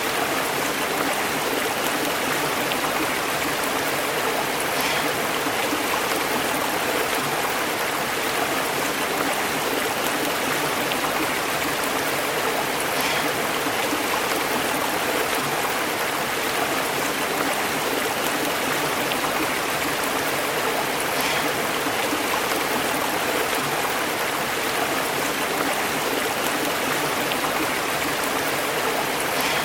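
Stream burbling and bubbling over rocks, a steady, even rush of running water.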